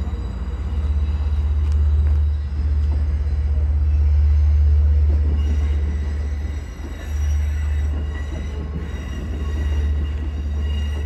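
Diesel-hauled Long Island Rail Road bilevel commuter train, a loud, steady low rumble with faint thin high-pitched squealing tones above it.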